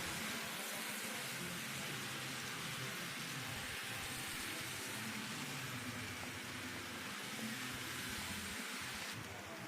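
Model train running on the layout's track: a steady hiss with a low, wavering motor hum and rumble, easing off about nine seconds in.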